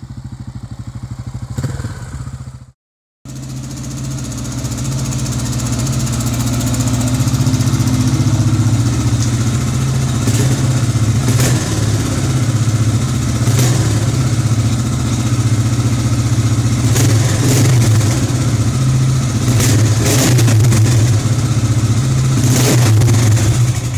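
Yamaha XT 600 (43F) single-cylinder four-stroke engine running loudly through a Sebring aftermarket exhaust. There is a brief break about three seconds in, then the engine note grows louder over the next few seconds and holds steady until it stops abruptly at the end.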